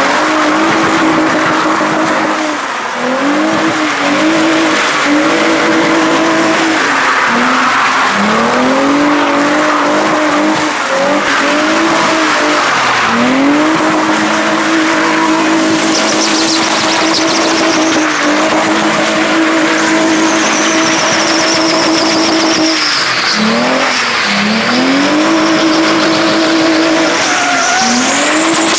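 A car drifting or doing donuts. The engine is held at high revs for seconds at a time, with quick lifts and climbs between, and the tyres squeal throughout. Sharper, rising and falling tyre screeches come in during the second half.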